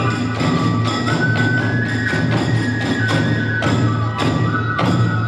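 Kagura hayashi music: a bamboo transverse flute plays a held melody that steps between notes, over a steady beat of drum and hand-cymbal strikes, about two a second.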